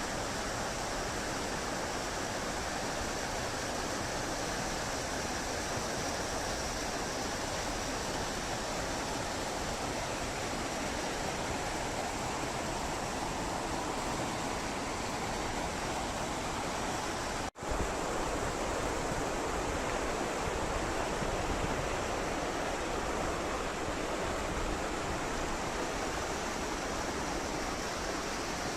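Mountain river rushing over its stony bed: a steady, even wash of water noise that drops out for an instant about two-thirds of the way through, then carries on slightly louder.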